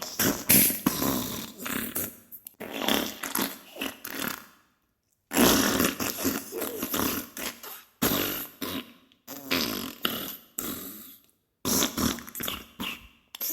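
Diarrhea sound effect: wet, sputtering fart noises in rapid irregular bursts, broken by two short dead-silent gaps, one about five seconds in and one near eleven seconds.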